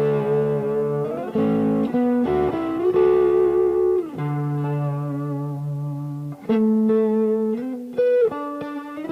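Yamaha STH 500R electric guitar played as a demo, ringing notes and chord shapes held for a second or two. Strings are bent upward in pitch about a second in and again near the end.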